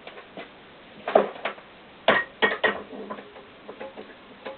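Metal engine parts and hand tools clinking and knocking as they are handled: a handful of sharp clinks, some briefly ringing, with the loudest cluster about two seconds in.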